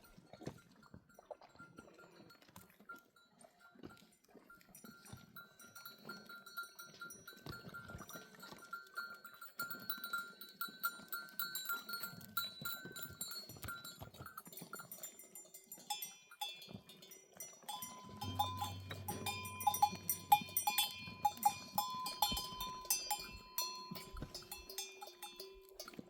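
Livestock bells on a flock of sheep ringing and clinking unevenly as the animals move, growing busier and louder about two-thirds of the way through.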